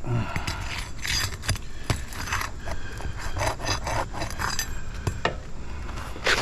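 A stuck asphalt shingle being worked loose and pulled free, irregular scraping and rubbing strokes with scattered sharp clicks. The shingles are stuck down and brittle.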